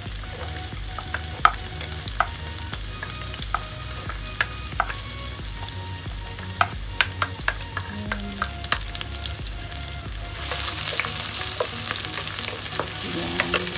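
Chopped onion and garlic sizzling in hot oil in a pot, with scattered sharp pops and clicks. About ten seconds in the sizzle grows louder as a wooden spoon stirs the onions through the oil.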